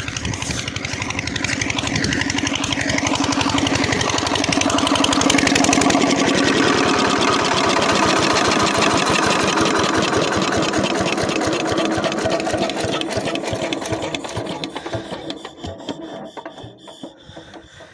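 Old Kirloskar diesel irrigation pump engine running, growing louder over the first few seconds, then being shut off: its firing slows and dies away over the last few seconds.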